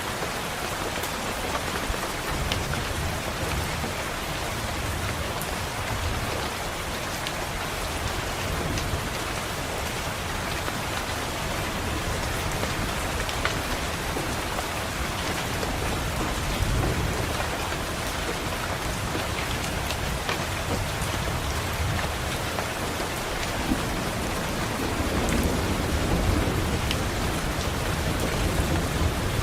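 Steady rain on a window, with low rolls of thunder rumbling underneath that swell a few times, most strongly about halfway through and again near the end.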